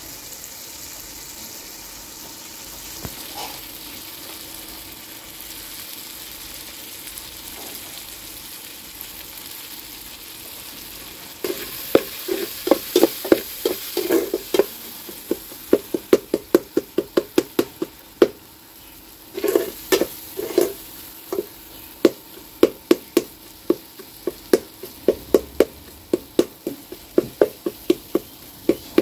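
Onions, tomatoes and garlic sizzling in hot oil in a metal pot over a wood fire. About eleven seconds in, a flat spatula starts stirring and scraping against the pot in quick repeated strokes, a few a second, with a couple of short pauses.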